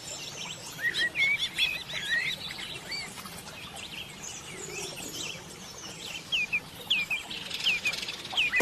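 Bird chicks chirping: a quick cluster of short, high chirps in the first few seconds, then a run of separate falling chirps near the end.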